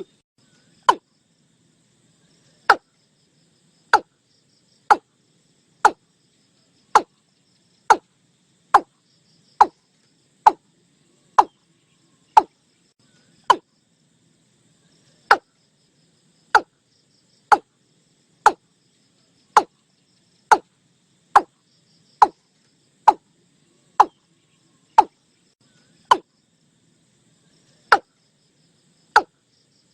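Watercock calling: a long series of short notes about one a second, each dropping quickly in pitch, with a few slightly longer gaps between them.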